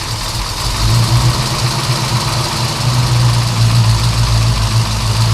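Tractor engine running steadily at idle: a loud, even low drone with a hiss over it.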